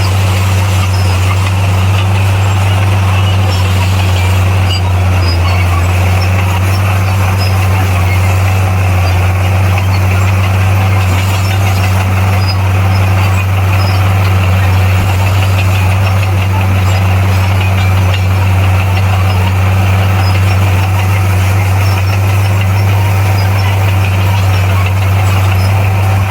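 Bulldozer's diesel engine running steadily at a constant pitch, with a deep hum under a rough mechanical noise.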